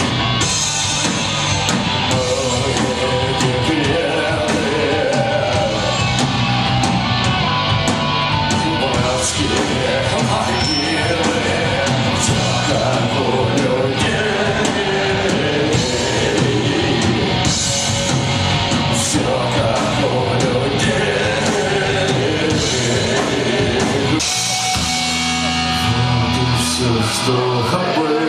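Live punk rock band playing loud with electric guitars, bass and drums under a sung, partly shouted vocal. About 24 seconds in the full band texture drops away to a sparser passage.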